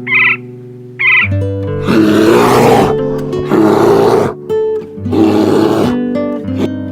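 Plucked-string background music with an animal giving three long, rough calls, each about a second, after two short higher calls near the start.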